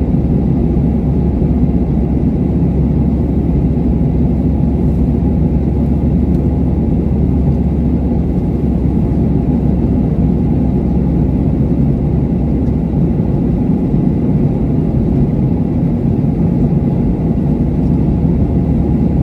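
Airliner cabin noise in flight: a steady, even low rumble of the jet engines and rushing air, heard from inside the cabin.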